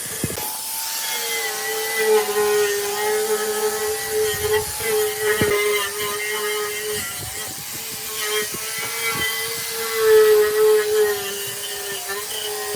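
Small handheld power tool running steadily at high speed, its pitch dipping slightly now and then as it bears on the work, with a few sharp knocks.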